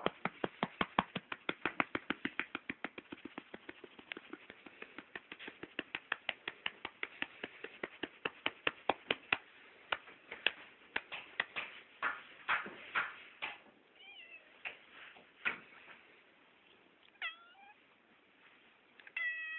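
A rapid run of short sharp clicks or taps, about five a second, which thins out after about ten seconds, then a domestic cat meowing a few short times near the end.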